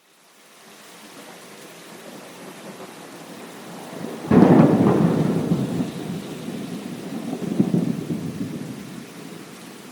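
Thunderstorm: steady rain hiss fades in, then a loud thunderclap breaks about four seconds in and rolls on as a low rumble, swelling again near the end before dying away under the rain.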